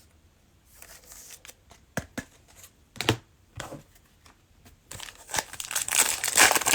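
A few soft handling clicks, then, about five seconds in, the cellophane wrapper of a Mosaic basketball cello pack being torn open and crinkled.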